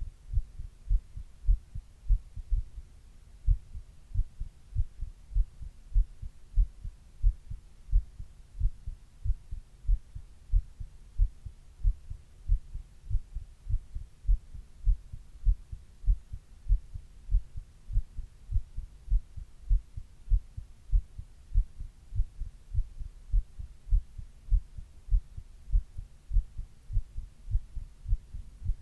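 A human heartbeat heard from the chest, its lub-dub pairs of low thumps going in a steady, even rhythm.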